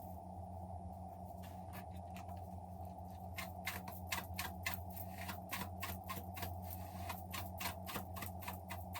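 A rapid series of small sharp clicks, several a second, starting about three seconds in, over a steady low hum.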